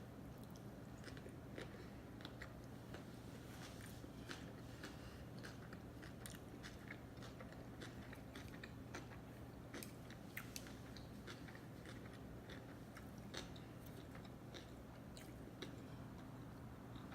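Close-miked chewing and biting of sushi: a steady run of small irregular mouth clicks and light crunches, over a low steady hum.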